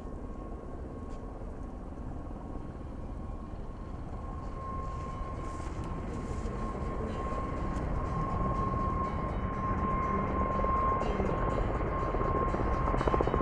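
Helicopter in flight, a low rotor rumble with a steady high turbine whine, growing steadily louder as it approaches.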